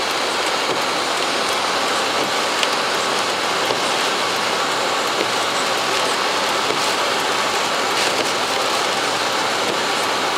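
Heavy rain beating steadily on a vehicle's windshield and roof, heard from inside the cab, with a few sharper ticks of drops or bits of debris striking the glass.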